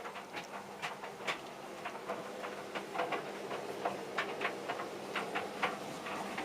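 Tumble dryers running with loads of jeans: a steady motor hum under irregular clicks and knocks, several a second, as the tumbling load hits the drum.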